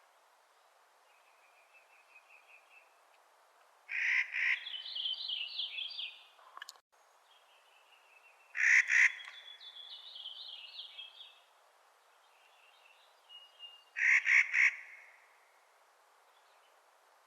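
Clark's nutcracker giving loud, harsh grating calls: three calls, each of two or three quick pulses, about four to five seconds apart. Softer rapid twittering series of higher notes fill the gaps between them.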